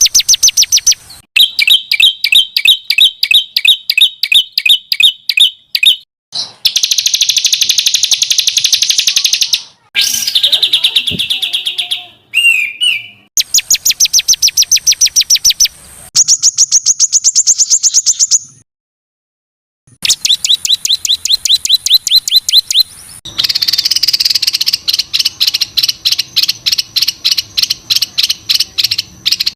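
Songbird tutoring recording: trains of rapid, evenly repeated sharp chirping notes, the coarse, dense 'shot' phrases used to teach contest songbirds. Several birds' phrases are spliced one after another, each breaking off suddenly, with a brief silence near the middle.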